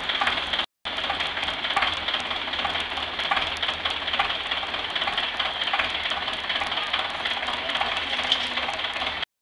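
Tractor engine running steadily, with a fast irregular ticking through it; the sound drops out for a moment just under a second in and cuts off abruptly near the end.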